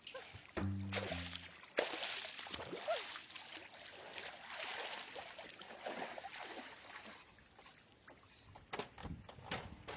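Water splashing and trickling in uneven bursts, with a brief held musical tone about half a second in.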